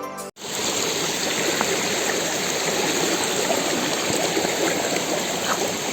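Background music cuts off just after the start, and then water rushes steadily and evenly, as from a stream or falls.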